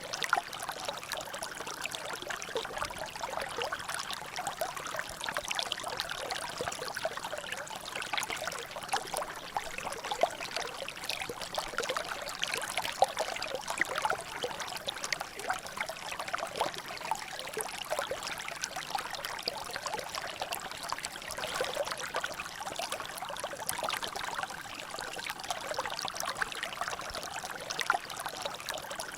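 Water trickling and dripping steadily in a small natural drainage, a continuous splashy patter of many small drops and rivulets.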